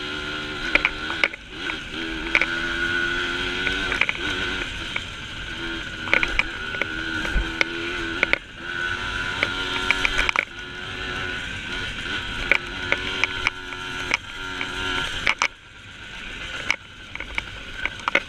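Small dirt bike engine running under throttle on a trail, its pitch holding and then dropping and rising again every few seconds, with many sharp clicks and knocks from the bike over rough ground.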